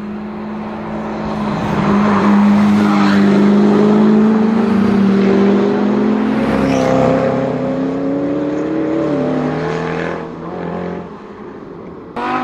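Convoy of supercars, including a Zenvo and a McLaren P1, accelerating up a mountain road. The engine note climbs steadily in pitch for several seconds, then drops as the gear changes. A fresh, louder rev starts just before the end.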